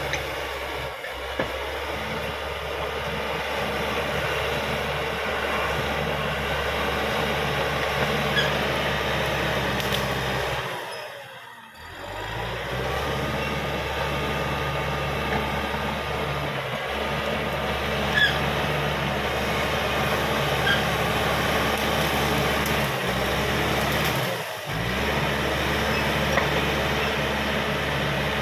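Crawler bulldozer working: its diesel engine runs steadily under the clatter and squeak of its steel tracks, with a few light metallic clicks. The sound dips briefly about halfway through.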